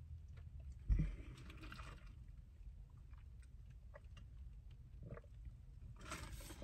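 Faint chewing and small mouth clicks, with a single bump about a second in followed by a brief rustle.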